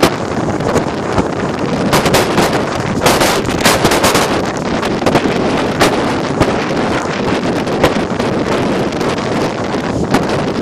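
Strong typhoon wind buffeting a smartphone microphone: a loud, dense rush with crackling gusts, heaviest around two to four seconds in.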